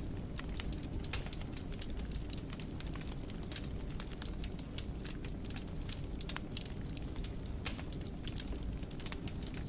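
Wood fire crackling: many quick, irregular pops and snaps over a low, steady rumble of the flames.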